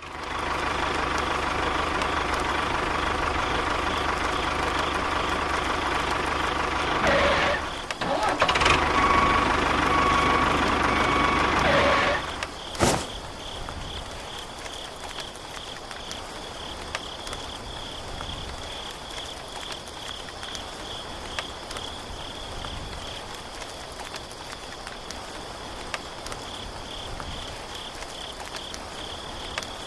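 An engine running for about twelve seconds, dipping briefly near eight seconds, then stopping with a sharp click. After that, crickets chirp steadily in a high, pulsing trill.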